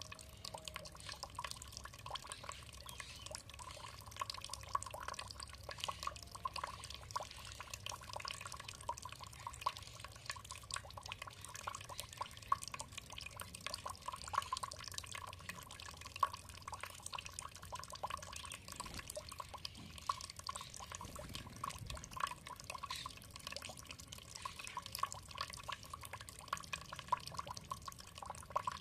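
Water dripping and trickling, a dense, irregular patter of small drops that goes on without a break.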